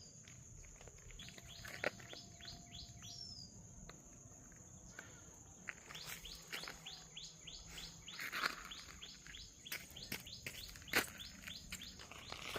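A bird calling in several bouts of quick, short chirps, each sweeping downward, about five a second. A steady high whine runs underneath, with a few sharp clicks.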